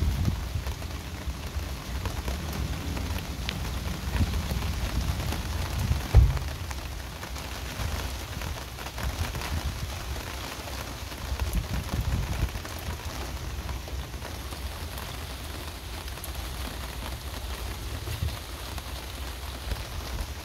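Heavy thunderstorm rain falling steadily and pattering on a surface, with uneven low rumbling underneath and a single sharp low thump about six seconds in.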